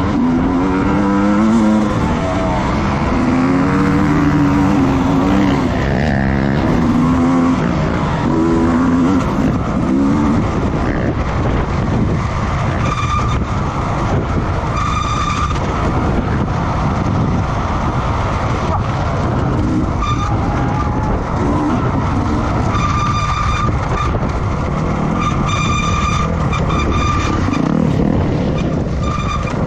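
Racing motorcycle engines revving and passing, their pitch rising and falling over the first ten seconds, then short high-pitched notes repeating over a constant engine and tyre noise.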